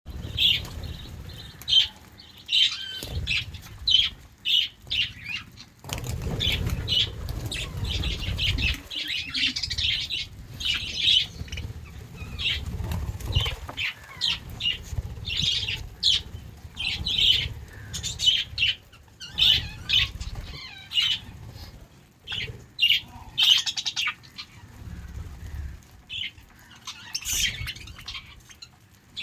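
Budgerigars chirping and twittering in many short, quick calls, with a low rumble beneath them at times, strongest from about six to nine seconds in.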